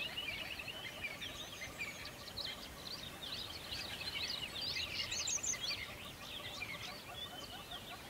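Many small birds chirping and twittering at once, a dense chorus of short high chirps.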